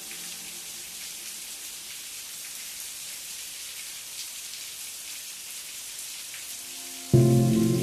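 Steady rain falling, an even hiss with scattered drop ticks. About seven seconds in, a loud sustained musical chord cuts in suddenly over the rain.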